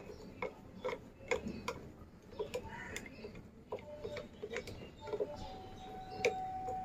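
Rhythmic knocking of a kitchen utensil, about two to three sharp strikes a second, with a thin steady tone joining about five seconds in.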